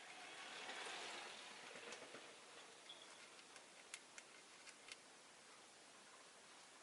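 Near silence: a faint rush of noise swells and fades in the first two seconds, then a few soft, scattered clicks come around four to five seconds in.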